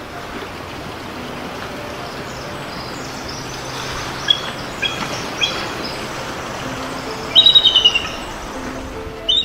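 Small songbird calling: three short high chirps in the middle, then a fast trill of about eight notes near the end, over a steady rushing background.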